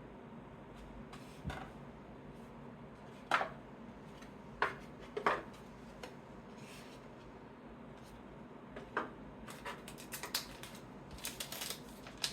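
Trading cards being handled and sorted by hand: scattered light taps and clicks as cards are picked up and set down, with a quick run of small ticks near the end.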